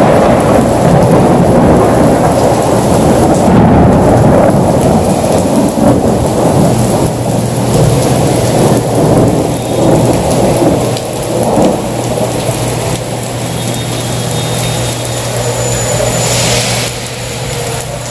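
Heavy rain pouring down in a loud, dense, steady wash, with a low rumble underneath; it eases slightly in the second half.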